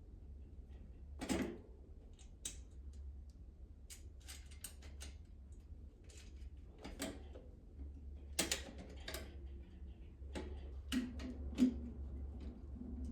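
Hand tools and small metal bicycle brake parts clicking and knocking as they are worked loose and handled: a dozen or so separate sharp clicks at irregular intervals, the loudest about a second in, around two-thirds through and near the end. A steady low hum runs underneath.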